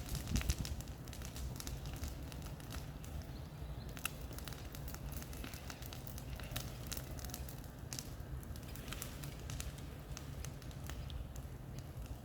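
Bonfire of cleared brush crackling, with irregular sharp pops and snaps over a steady low rumble.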